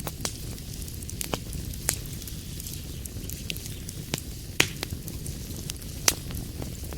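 Wood fire crackling in a fireplace: a steady low rumble of burning with scattered sharp pops and snaps, two of them louder than the rest, near the middle and towards the end.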